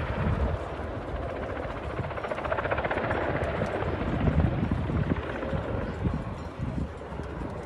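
Helicopter flying overhead, its rotor blades chopping at a fast, steady beat over the engine noise.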